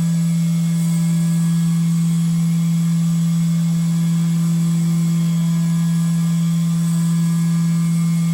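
SYIL X7 CNC mill running steadily, its spindle giving a constant low hum while it mills an aluminium bracket.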